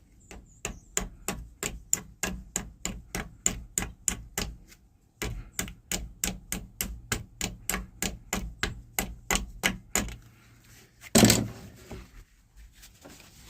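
Hand-tool work on metal: rapid, even clicking at about four to five clicks a second, in two runs with a short break about five seconds in, then one louder scraping rattle near the end.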